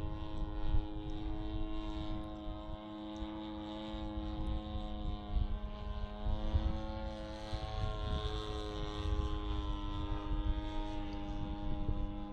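The G26 two-stroke gas engine of a large RC Piper Cub in flight, its 18x8 propeller droning at a steady pitch that wanders slightly. Irregular low rumbling of wind on the microphone underneath.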